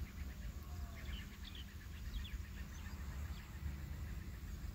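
Low background noise with a few faint, short bird chirps in the first couple of seconds.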